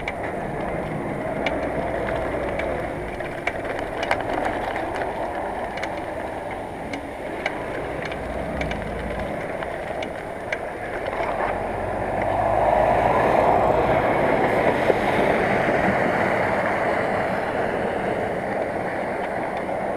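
Wind and road noise from riding a bicycle on a country road, with a motor vehicle coming up behind and going past, loudest about two-thirds of the way through, and a few light clicks.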